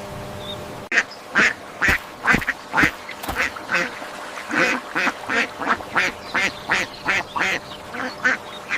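A duck quacking over and over in a fast, even run of short calls, about two or three a second, starting about a second in.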